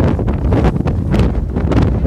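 Wind buffeting the microphone with a loud, steady low rumble, broken by short sharp gusty crackles.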